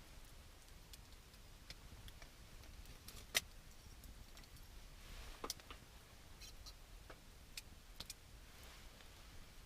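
Wood campfire crackling: scattered sharp pops and ticks at uneven intervals, with one louder pop about three and a half seconds in.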